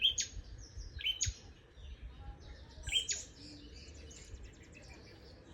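Birds chirping: a few sharp, high notes that slide downward come in quick succession in the first second and a half. Another chirp comes about three seconds in, followed by a faint, rapid twitter.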